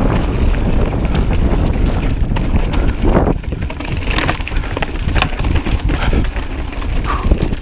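Strong wind buffeting the microphone as a Trek Slash enduro mountain bike rolls over a loose, stony trail, with scattered sharp clicks, crunches and rattles from the tyres on the rocks and from the bike.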